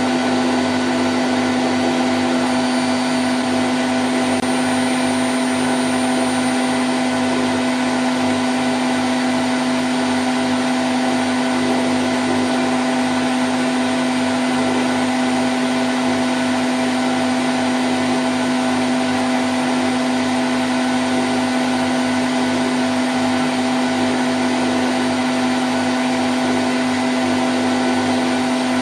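Candy Grand O' F106 washing machine in its spin cycle at 1000 rpm: a steady, unchanging high-speed whir with a strong low hum from the drum and motor.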